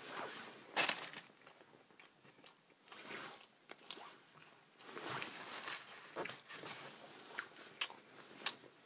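A person biting and chewing crunchy food, with scattered crisp crunches: a toasted sub or potato chips being eaten.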